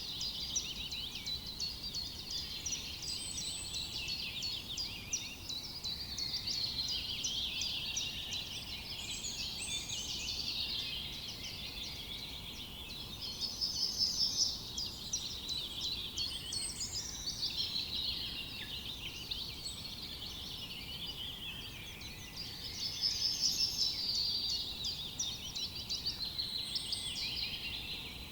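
A dense chorus of forest songbirds, many overlapping chirps and whistles, with a louder rapid trill about 13 seconds in and again about 23 seconds in.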